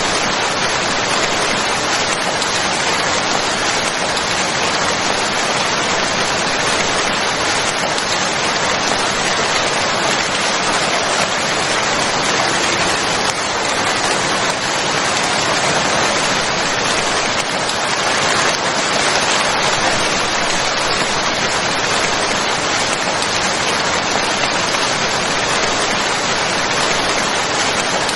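Steady rain falling, a dense, even hiss of raindrops that keeps the same level throughout.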